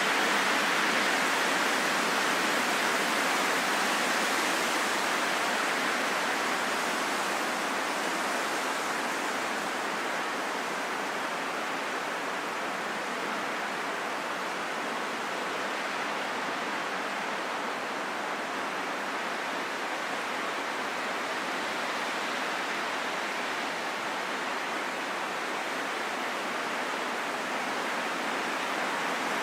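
Steady rushing wind, a smooth hiss with no gusts or whistling, easing a little and swelling again near the end.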